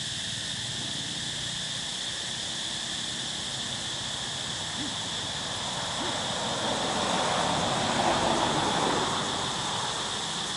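Steady high-pitched insect chorus, crickets or cicadas, droning throughout. A broader rushing noise swells from about six seconds in, peaks around eight, and fades away.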